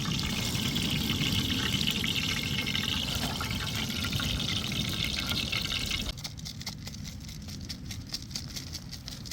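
Liquid being poured, a steady splashing hiss that stops abruptly about six seconds in, followed by fainter scattered clicks and crackles.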